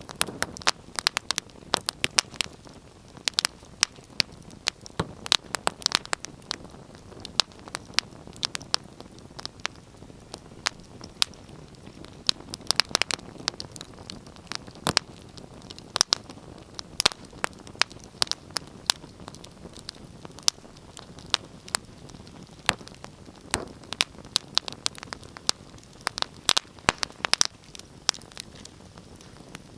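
Wood fire crackling: irregular sharp pops and snaps over a low steady hiss of burning logs.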